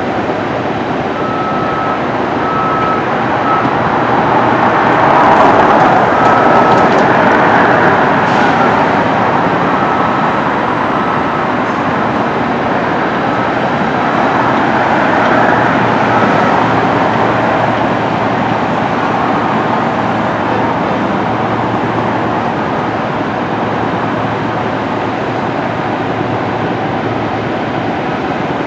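Steady, loud noise of a vehicle in motion, swelling a little about five seconds in.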